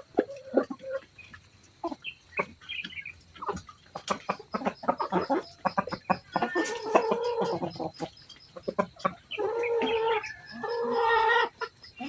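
Chickens clucking in short repeated calls, with two longer, drawn-out calls in the second half.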